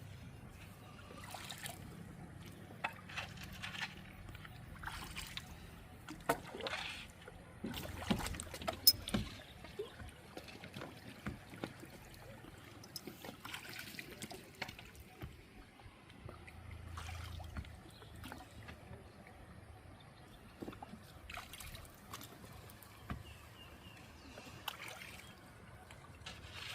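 Water trickling and splashing around a bamboo raft drifting down a shallow river, with scattered sharp knocks and splashes, the loudest about nine seconds in.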